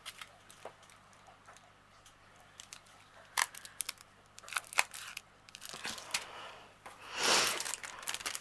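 Small plastic bags of diamond painting drills being handled and sorted: scattered quiet clicks and crinkles, with a louder rustle about seven seconds in.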